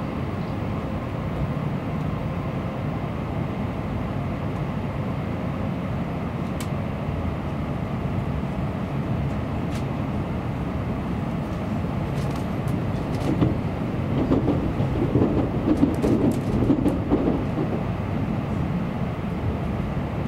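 Tokaido Shinkansen train's running noise heard from inside a passenger car as it approaches a station stop: a steady low rumble that swells louder for a few seconds past the middle, with a few faint ticks.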